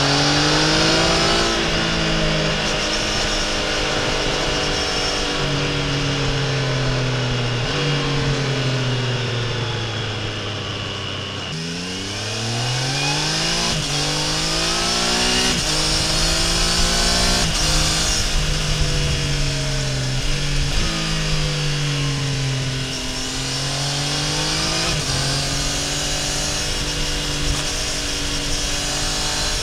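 Triumph Tiger Sport 800's three-cylinder engine and exhaust under way, its pitch climbing and then dropping sharply at each quick upshift. About ten seconds in it winds down as the bike slows, then it pulls hard again through several rapid upshifts.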